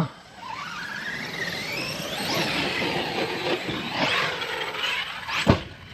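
Large-scale electric RC car's brushless motor whining as the car speeds up: the pitch rises steadily for about two seconds, then rises and falls with the throttle. There is a sharp thump near the end.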